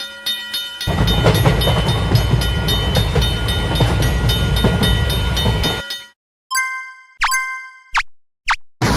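Japanese railroad crossing warning bell ringing with rapid repeated strikes while a train passes with a heavy rumble. The rumble cuts off abruptly about six seconds in. After a short gap come another bell strike and a few quick whooshes.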